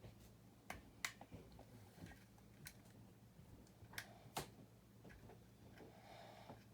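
Sparse, sharp clicks and taps of small plastic building-brick pieces being handled and pressed together, over a faint steady low hum.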